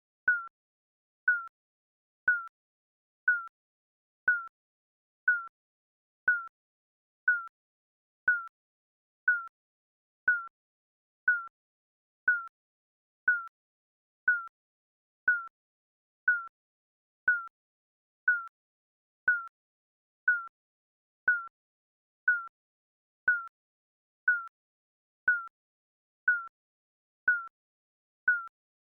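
Digital countdown timer beeping once a second, each beep short and high with a slight dip in pitch.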